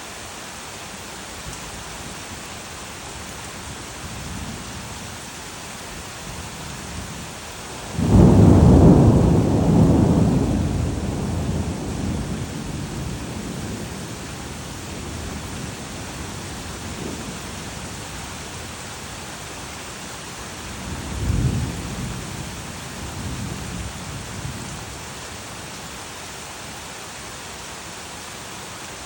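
Steady rain with two claps of thunder. The first, about a quarter of the way in, starts suddenly and is loud, then rumbles away over several seconds. A second, weaker rumble comes about two thirds of the way through.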